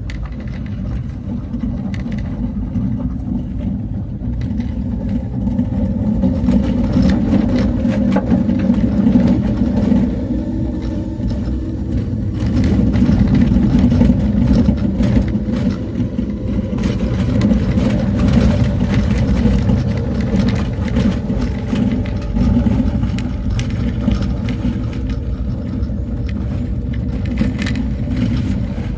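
Road vehicle driving, its engine running with a steady low rumble that swells twice and then eases, with scattered short knocks.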